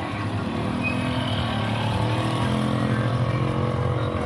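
Motor vehicle engine running, a steady low hum with pitched tones that shift slowly.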